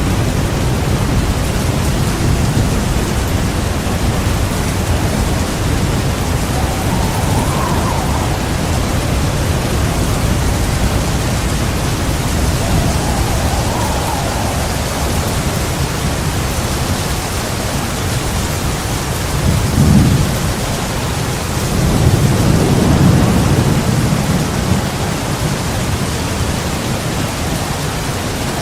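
Heavy rain falling steadily through a thunderstorm, with a continuous low rumble of thunder. A louder thunder rumble swells about two-thirds of the way in, followed by a longer one soon after.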